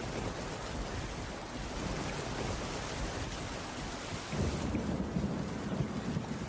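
Steady rain falling on a wooden cabin roof, with a low rumble of distant thunder rising in the last couple of seconds.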